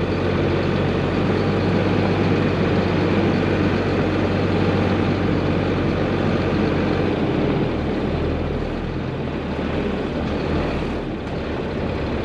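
Diesel engine of a Chevrolet C8500 medium-duty truck running steadily at low speed while it is maneuvered, easing off slightly in the second half.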